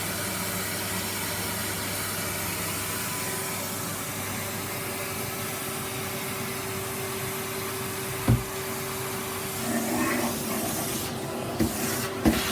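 Vacuum cleaner running steadily, a constant motor hum under the suction hiss. There is a single sharp knock about eight seconds in and a few clicks near the end.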